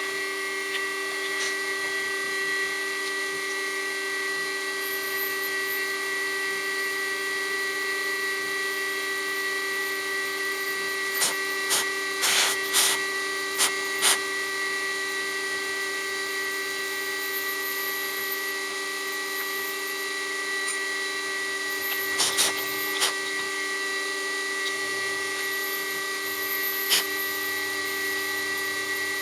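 Milling machine spindle running at a steady, whining pitch as an end mill cuts an aluminium block. Sharp clicks come in clusters around the middle and once more near the end.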